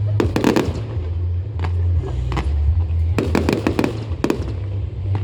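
Aerial fireworks bursting overhead: clusters of sharp cracks and crackles, thickest about three to four seconds in, over a continuous deep booming.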